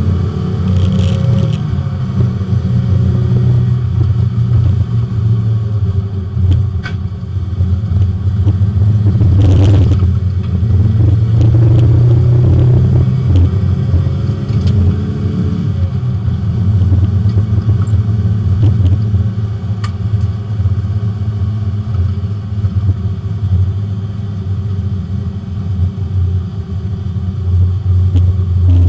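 Porsche 924 race car's four-cylinder engine running at fairly steady revs under way on track, heard from inside the car.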